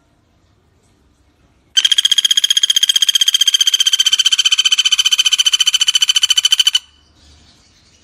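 Pelatuk bawang woodpecker (common flameback) giving its rapid rattling trill, about a dozen evenly spaced notes a second. It starts about two seconds in, lasts about five seconds and stops abruptly.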